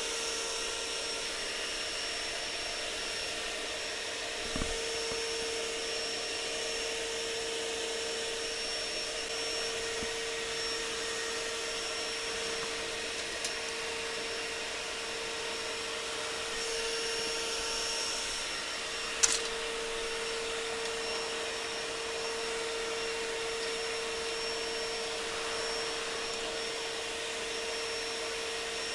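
A steady machine hum holding one constant tone over an even hiss, with a few sharp clicks, the loudest about two-thirds of the way through.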